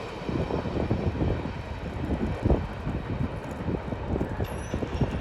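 Wind buffeting the microphone over the low rumble of a freight train rolling past, with no wheel squeal.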